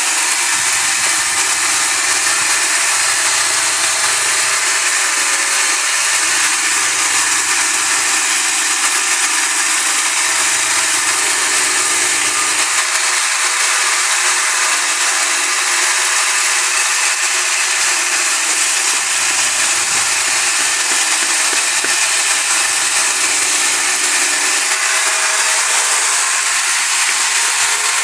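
A woodworking power tool running steadily with a loud, even, hissing noise and no breaks.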